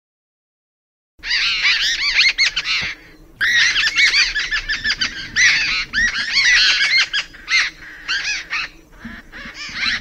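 Several birds chattering and calling at once, a dense run of quick, overlapping chirping notes with short breaks, starting about a second in.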